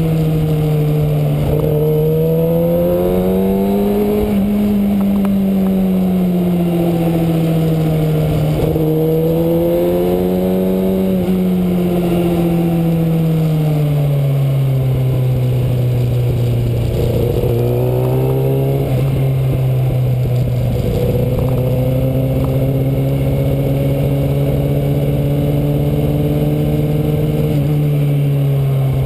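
Kawasaki Ninja ZX-6R sport bike's inline-four engine running while riding downhill, its pitch rising and falling gently through the first half, then settling lower and steady.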